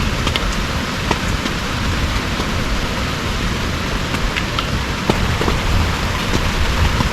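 Heavy rain falling steadily, with scattered single drops ticking sharply close by.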